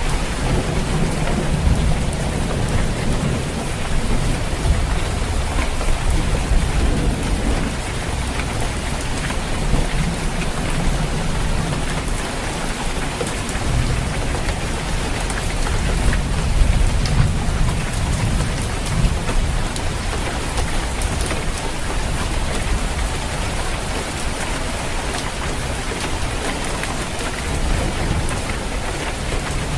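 Steady heavy rain falling on a roof, with low rolling rumbles of thunder swelling and fading underneath.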